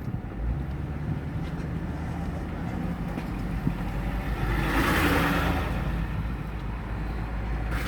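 Truck engine running steadily while driving, tyre and road noise beneath it, with a swell of whooshing noise about five seconds in.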